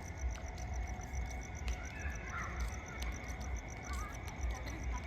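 Insects chirping in a rapid, even pulse, about five or six chirps a second, with a few short bird calls and a low rumble underneath.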